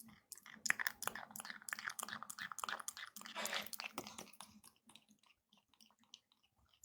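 African grey parrot eating warm dragon fruit tea from a cup: a quick run of small beak clicks and chewing sounds that thins out after about five seconds.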